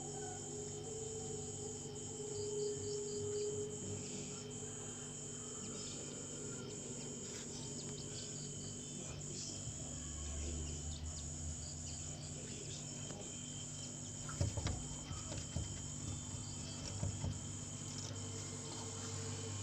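Steady high-pitched chirring of insects, with a few sharp taps and knocks about three-quarters of the way through.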